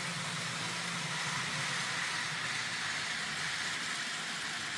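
N gauge model train, a Japanese nuclear flask train, running steadily along the layout track, its motor and wheels making a continuous running noise that eases slightly near the end.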